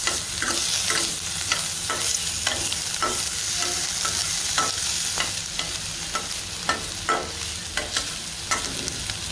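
Chopped onion, garlic and whole spices frying in ghee in a stainless-steel pan with a light sizzle, as a spatula scrapes and stirs them across the pan about twice a second.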